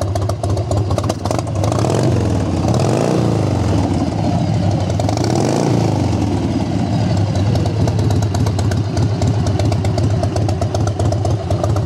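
1999 Harley-Davidson Softail Custom's carbureted 80-inch Evo V-twin idling with its loping beat. The throttle is blipped twice, about two and five seconds in, and the pitch rises and falls each time.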